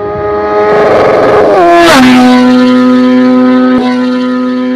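An engine revved hard and held at high revs, then dropping sharply to a lower, steady pitch about two seconds in and holding there.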